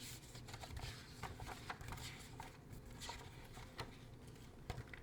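Faint paper rustling with scattered small clicks and taps: a picture book being handled and its pages turned.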